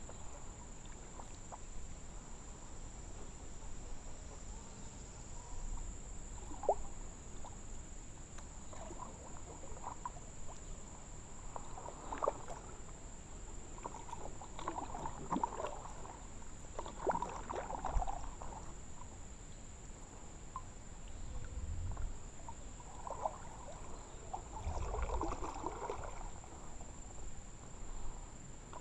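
Kayak paddle dipping into the water, with irregular splashes and drips from the blade between strokes.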